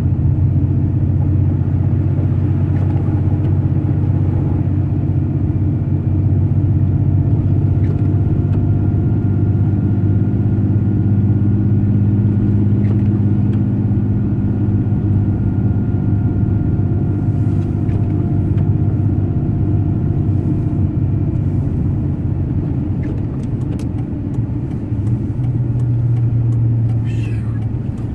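Steady driving noise heard inside a truck's cabin on the highway: a low rumble of engine and tyres with a faint steady whine above it, easing off slightly near the end.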